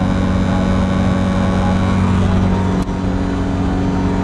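Mazda Miata's engine running at a steady cruise, heard from inside the cabin: a loud, constant drone with low road rumble. The sound briefly dips about three seconds in, then carries on at the same pitch.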